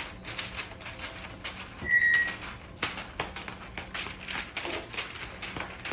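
Parrots, a cockatoo and an African grey, moving about with a run of irregular clicks and taps, and one short high steady whistle about two seconds in.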